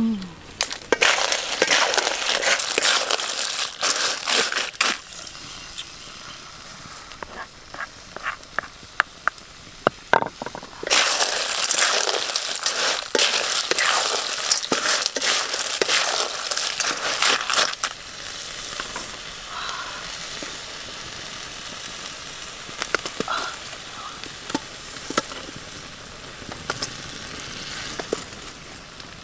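River clams stir-frying in a wok: a steady sizzle with the shells clattering and scraping as they are tossed, loudest in two long stretches, then a quieter sizzle with scattered crackles.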